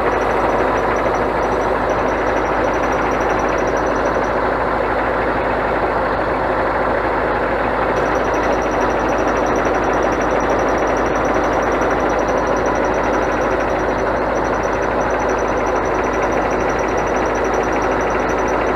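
Scania truck's diesel engine running steadily, with a faint, high, rapidly pulsing tone over it that stops for a few seconds in the middle and then resumes.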